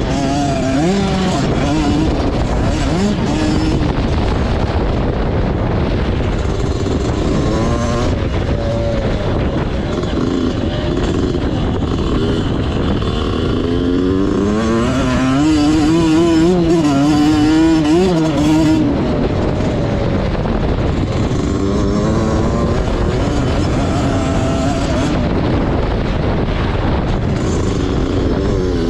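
Motocross bike engine being ridden on the track, revving up and falling back again and again, loudest about two-thirds of the way through.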